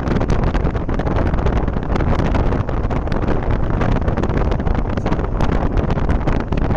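Loud, steady wind buffeting the microphone, a continuous low rumble with irregular crackles.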